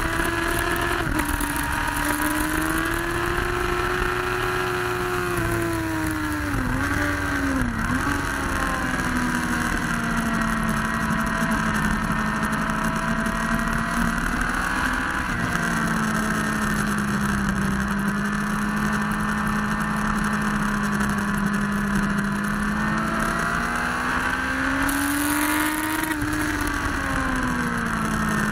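Motorcycle engine under way, heard through an onboard camera with constant wind rush. Its pitch drops with two sharp dips about seven seconds in, holds steady for a long stretch, then climbs and falls again near the end.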